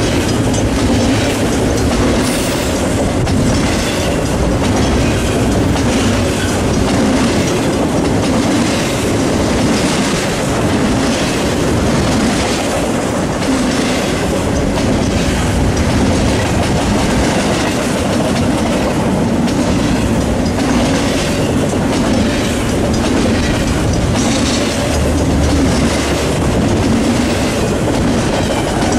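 Double-stack container freight train rolling past at close range: steel wheels on rail make a steady loud rumble with a regular rhythmic clicking as the well cars go by.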